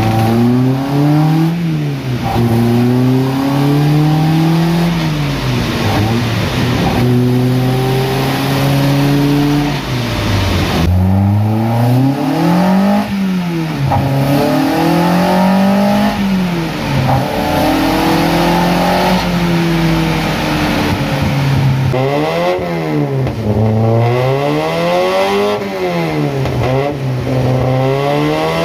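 Mazda MX5 NC's 2.5-litre Duratec four-cylinder engine on 48 mm individual throttle bodies, running loudly on a rolling-road dyno. It is revved up and down repeatedly, holding steady revs for a few seconds at a time, with quick blips of the throttle in the last third.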